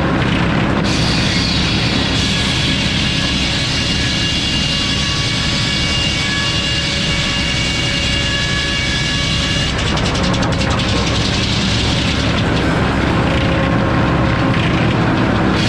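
Sawmill running under load: a steady engine hum with high, steady tones from the saw cutting through a log. The sound shifts about a second in and again around ten seconds in.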